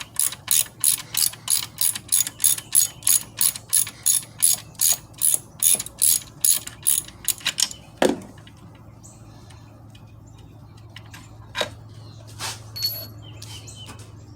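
Hand ratchet with a socket clicking rapidly and evenly, about four clicks a second, as it backs out an alternator mounting bolt. The ratcheting stops about eight seconds in with a knock, followed by a few faint clicks.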